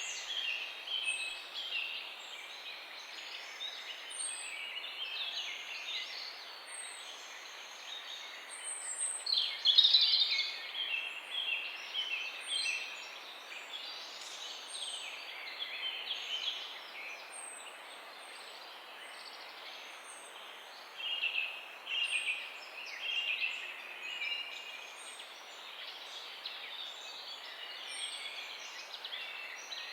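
Many birds chirping and twittering together in quick, overlapping calls, with high short whistles above, and a louder flurry about a third of the way through.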